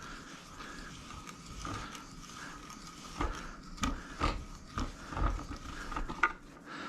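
Wrench on a motorcycle mirror's reverse-threaded stem, working it loose from the handlebar perch: scattered light metal clicks and knocks, more of them in the second half.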